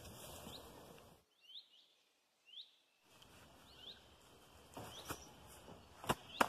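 A small bird's repeated short chirps, each a quick upward-hooked high note, sounding faintly about once or twice a second over quiet outdoor background. Two sharp clicks come near the end.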